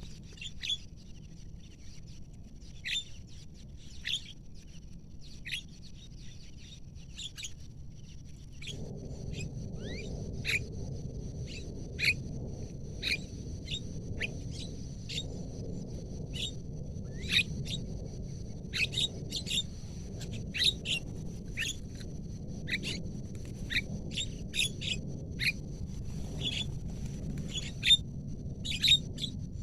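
Javan mynas (jalak kebo) giving many short, sharp calls at irregular intervals, over a steady high-pitched whine. A steady low noise starts about nine seconds in.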